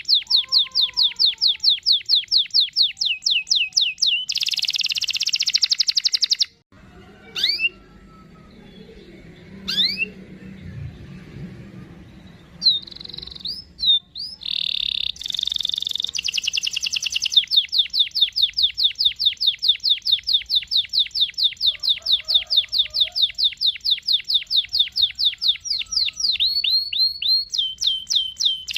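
Domestic canary singing long rolling trills of rapid, evenly repeated high notes. The song breaks off for a few seconds about a quarter of the way in, with only a few scattered sweeping notes, then starts again with another long trill.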